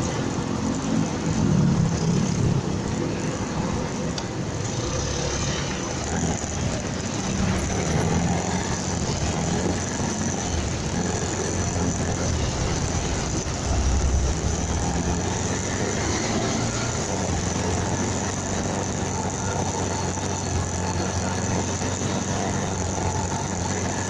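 A motorcycle on the move, recorded by its dashcam: a steady low engine drone under wind and road noise, swelling a little about two seconds in and again about fourteen seconds in.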